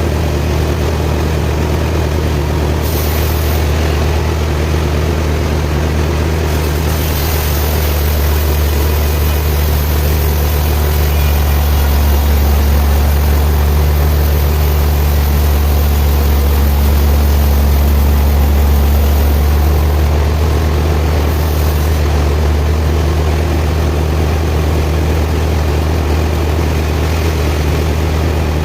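Large sawmill machinery running with a steady low drone. A high hiss joins it about seven seconds in and drops away around twenty seconds, and the drone is a little louder in between.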